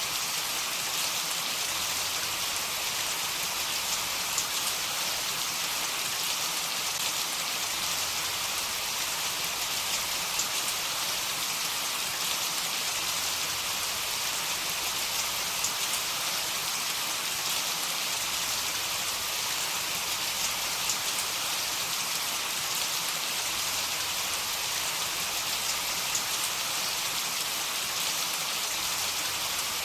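Heavy rain falling steadily, a dense hiss with scattered individual drop ticks.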